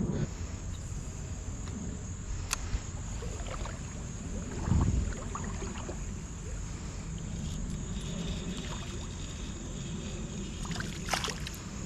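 Steady low rush of a shallow creek around a wading angler, with a sharp click a few seconds in, a dull thump about five seconds in, and a few more clicks near the end.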